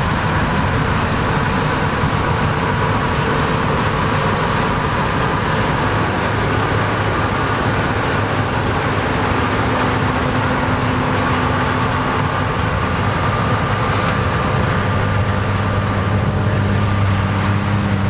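Combine harvester running steadily while harvesting corn: the engine's drone with the whir of the threshing machinery and the corn head. The low hum grows a little stronger near the end.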